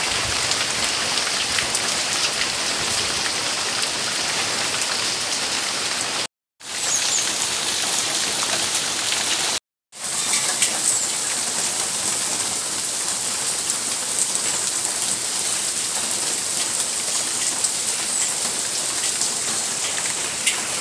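Steady rain falling, with many close individual drop hits through it. The sound cuts out completely twice for a moment, about six and ten seconds in.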